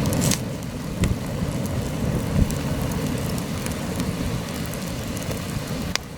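Heavy wind buffeting the microphone in a low rumble over a campfire crackling, with a few sharp pops: one just after the start, one about a second in and one near the end.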